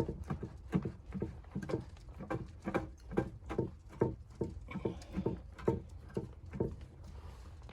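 Footsteps tramping through deep snow at a steady walking pace, about two steps a second, over a steady low rumble.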